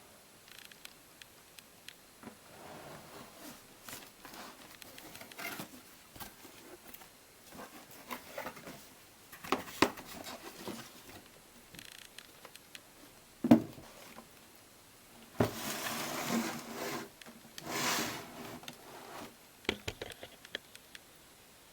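Scattered plastic clicks and knocks with short rustling stretches from a toy washing machine being handled, with one sharp click about halfway through.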